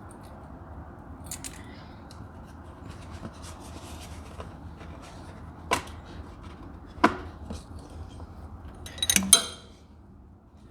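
Metal parts and tools clinking during engine work: two sharp single taps, then a short ringing clatter of metal on metal near the end, over a steady low hum.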